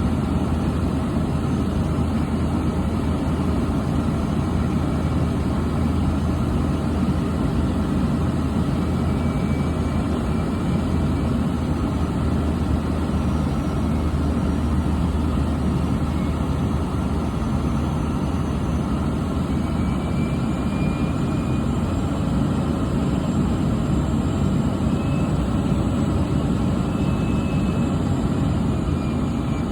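An engine running steadily: a constant low drone that does not change in pitch or loudness.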